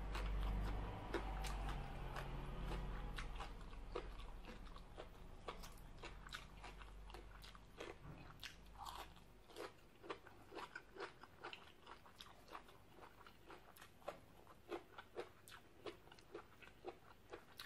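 Close-up chewing of a mouthful of raw, crunchy papaya salad and vegetables: a steady run of sharp, short crunches, about two a second, with no speech.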